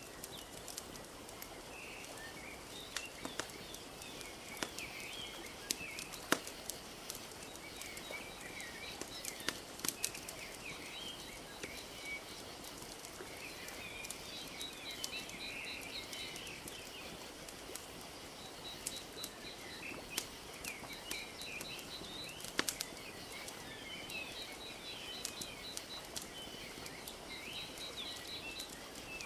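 Wood fire crackling with scattered sharp pops, over a steady soft wash of lapping lake water, while small birds chirp and twitter and a quick high trill repeats several times.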